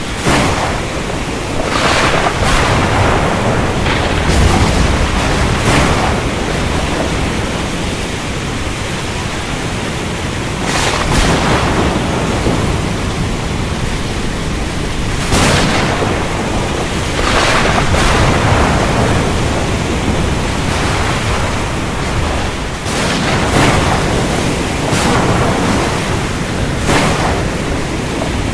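Thunderstorm: steady heavy rain with short, sharp cracks of thunder about ten times, some close together.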